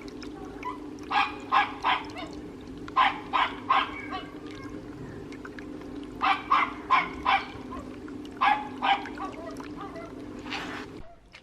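Short animal calls, most likely barks, repeated in quick runs of three or four, over a steady low hum that cuts off near the end.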